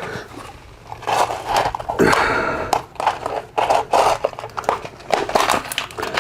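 Door-closer hardware being handled: irregular clicks, clatter and scraping, busiest from about a second in.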